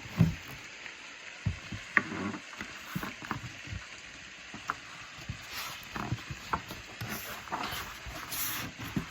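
Pages of a picture book being handled and turned: paper rustling with scattered light taps and clicks.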